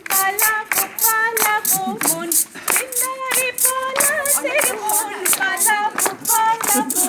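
Group of women's voices singing a Bengali folk song without instruments, with steady rhythmic hand clapping at about three to four claps a second.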